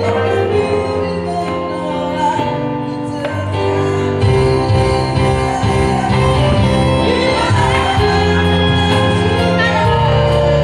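Live band playing a song with singing; the band's low end comes in fuller about four seconds in.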